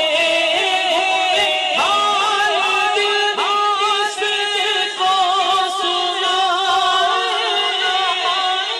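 Devotional naat singing: a long melodic passage without clear words, with held notes and slow slides in pitch.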